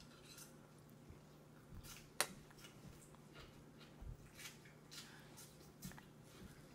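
Toddler chewing a mouthful of food with faint wet lip smacks and mouth clicks scattered through, and one sharp click about two seconds in.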